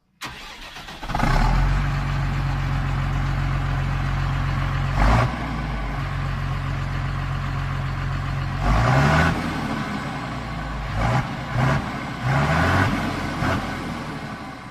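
New Holland T6030 tractor engine running through a straight steel exhaust, with a brief surge about five seconds in and several short revs climbing in pitch in the second half, before it fades out near the end.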